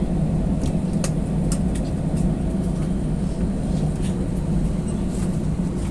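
Steady low engine drone with scattered light clicks and rattles over it.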